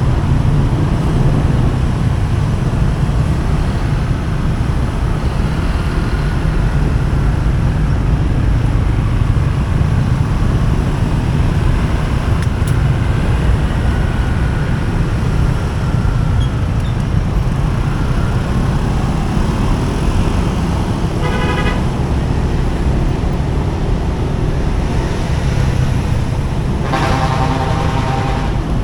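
Steady low rumble of riding a motorcycle through road traffic. A vehicle horn honks briefly about three quarters of the way in, then sounds again for over a second near the end.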